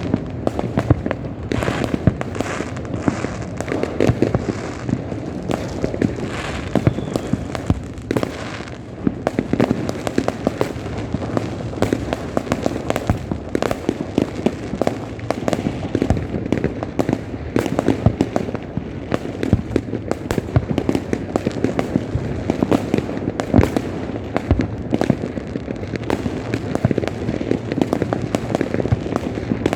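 Many fireworks and firecrackers going off at once across a city, a dense, unbroken barrage of bangs, pops and crackles.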